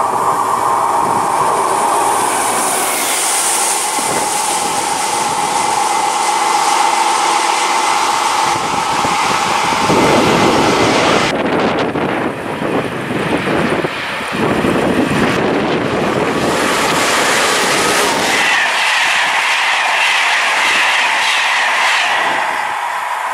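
Trains running past close by on the track, with steady wheel-on-rail noise. After a change about eleven seconds in, a BB 7200-class electric locomotive hauling Corail coaches comes up and starts to pass, and the sound takes on a higher-pitched rushing edge near the end.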